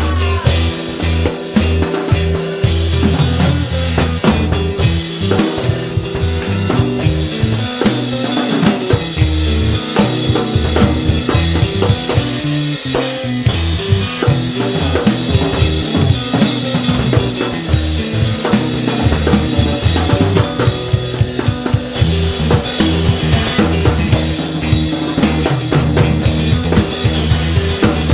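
A Yamaha drum kit played along with a recorded rock song: a busy pattern of kick drum and snare strikes over the track's bass and guitar, whose low notes change in steps.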